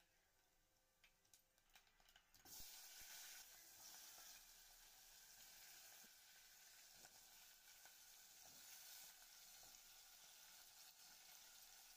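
Cumin, garlic and dried red chilli tempering in hot oil crackle faintly, with scattered small pops. About two and a half seconds in, a steady sizzle of frying in the pot sets in and continues.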